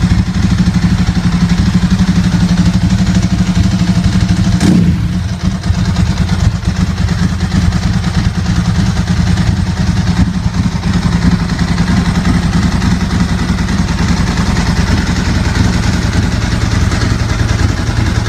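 Ducati 916's 90-degree V-twin engine idling steadily, with one sharp click about five seconds in.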